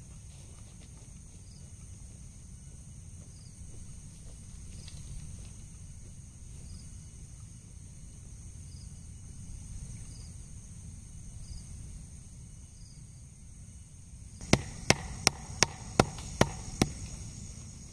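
A steady high insect drone with faint regular chirps over a low outdoor rumble. Near the end come seven sharp knocks in quick succession, about three a second.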